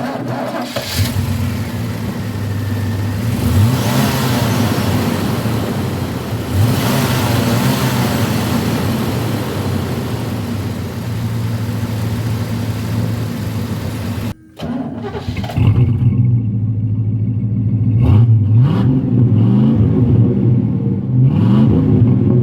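Vehicle engine running, with several short blips of the throttle that raise the revs and let them fall back; the sound breaks off briefly about 14 seconds in and picks up again.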